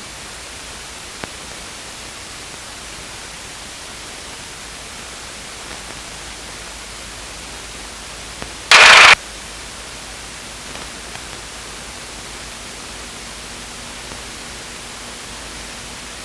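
Steady hiss from an aircraft radio/intercom audio feed, with one short, loud burst of static about nine seconds in.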